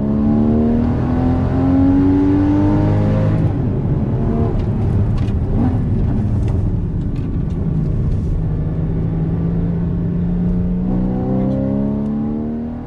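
Porsche Cayman GTS engine revving hard under acceleration. Its pitch climbs over the first few seconds and climbs again near the end.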